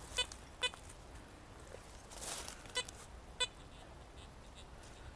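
Metal detector giving short, clipped beeps, four in all, two close together at the start and two more near the middle, with a brief rustle of movement through undergrowth between them.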